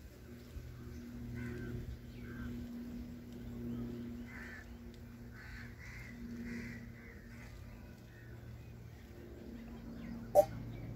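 A series of short bird calls, several close together through the middle, over a steady low hum, with one sharp knock near the end.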